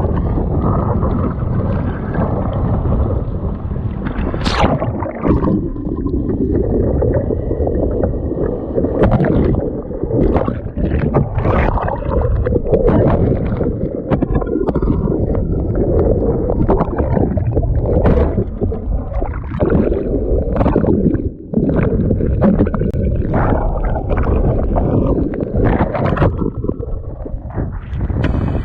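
Strong wind buffeting the microphone in a constant low rumble, mixed with rushing and splashing water that comes in many short sharp surges.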